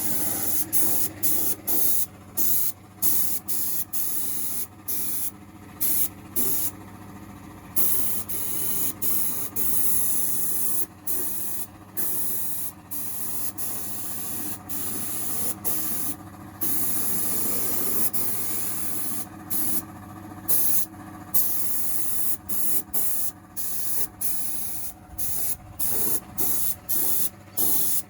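Air-fed sandblaster blasting the bare body panels of a car: a loud hiss triggered on and off in bursts, each lasting a fraction of a second to a few seconds, with short gaps between.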